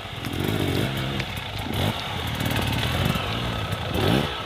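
Dirt bike engine revving, its pitch climbing and dropping several times as the throttle is opened and eased off.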